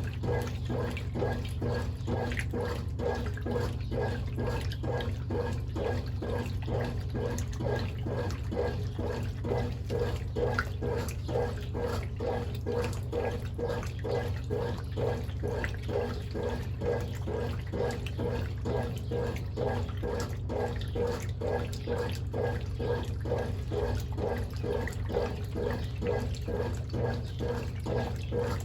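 Brastemp Ative 11 kg (BWL11) washing machine running with water in the tub: a steady motor hum under a fast, even sloshing rhythm, typical of the wash agitation.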